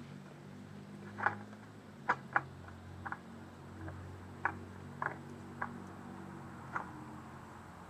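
Scattered light clicks and knocks, about eight in all at uneven intervals, of parts or tools being handled during an oil change, over a low steady hum.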